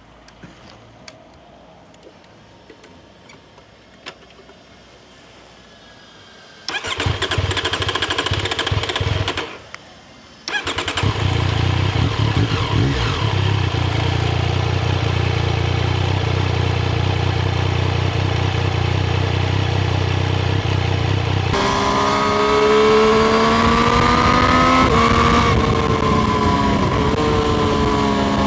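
Triumph Street Triple RS 765 cc three-cylinder motorcycle engine: a few small clicks, then it starts, cuts out after about three seconds, starts again a second later and idles steadily. Later the engine speed climbs and falls as it is revved.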